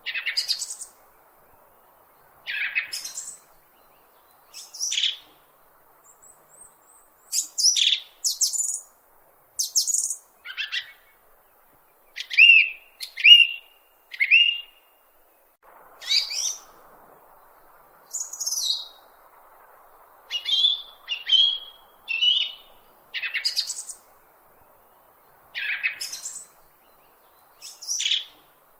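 A bird chirping: many short, separate high calls, some sweeping up and some down, coming about once a second with short gaps, over a faint steady hiss.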